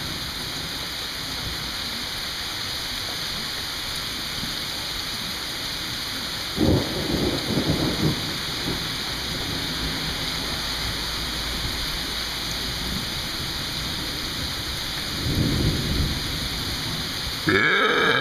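Steady rain falling, with two sudden claps of thunder rumbling out, about a third of the way in and again later. Near the end there is a brief, loud vocal sound.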